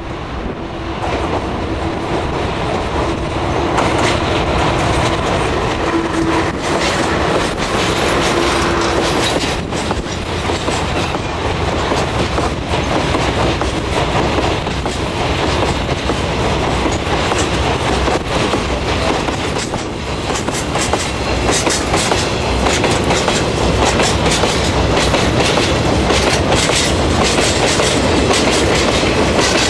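Freight train running on the rails, its wheels clacking over the rail joints. The clacking gets louder within the first few seconds and comes thick and fast in the last third.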